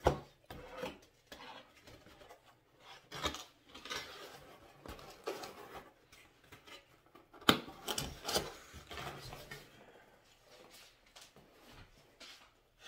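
A person eating stuffed-crust pizza close to the microphone: irregular crunchy chewing, biting and rustling. A sharp click about seven and a half seconds in is the loudest sound.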